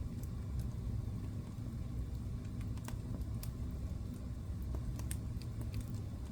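Wood fire burning in a fireplace: a steady low rumble of the flames with irregular sharp crackles and pops scattered over it, several coming close together near the middle.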